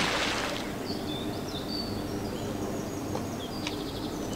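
Small birds chirping and twittering over a steady outdoor background rush.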